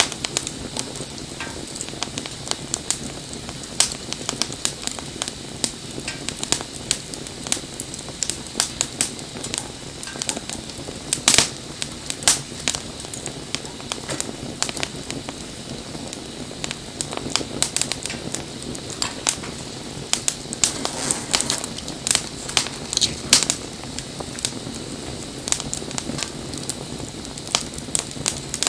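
Bonfire crackling, with irregular sharp pops over a steady low rush of flame. A few louder pops stand out, one about eleven seconds in and several more past twenty seconds.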